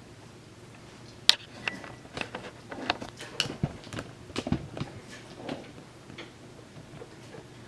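Coton de Tulear puppies scuffling in play: a few seconds of irregular clicks and knocks, the first the sharpest.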